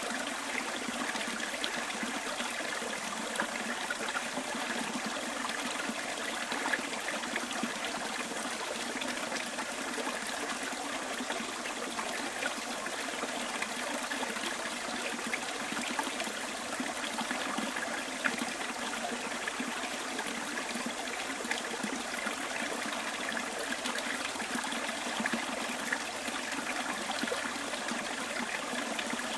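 Small bush stream flowing and trickling over stones, a steady babble with small splashes.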